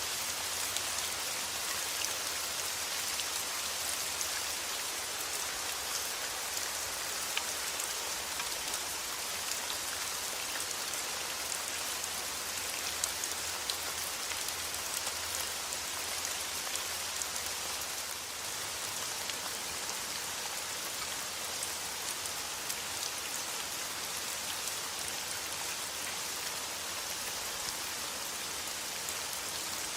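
Steady rain falling: an even hiss of rain with scattered individual drop taps.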